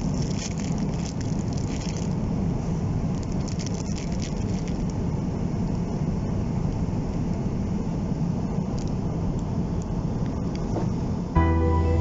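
Steady drone of a Boeing 777-200 cabin in cruise, engine and airflow noise heaviest in the low end, with a few faint clicks and rustles in the first couple of seconds. Soft music comes in just before the end.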